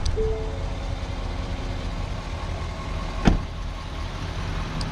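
A pickup truck door shuts with a single loud thump about three seconds in, over a steady low engine rumble.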